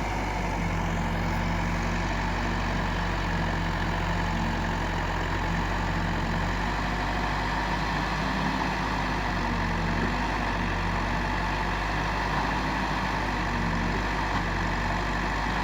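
Diesel engine of heavy earthmoving machinery running steadily at a constant speed.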